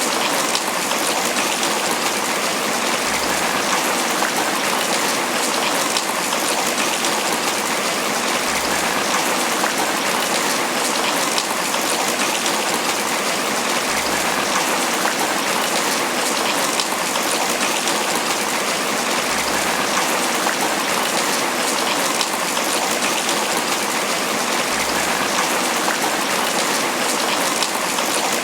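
Steady, dense tropical rain pattering on banana leaves.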